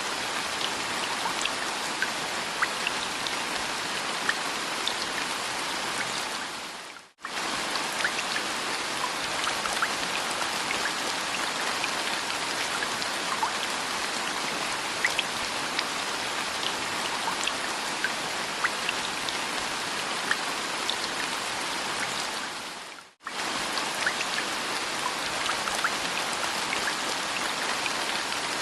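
Steady rain with single drops heard as small ticks. It fades out and comes straight back twice, about seven seconds in and again about sixteen seconds later.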